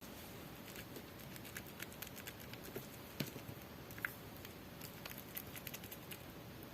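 Slime being pressed and kneaded by hand, giving a faint stream of small sticky clicks and pops, with one sharper pop a little past three seconds.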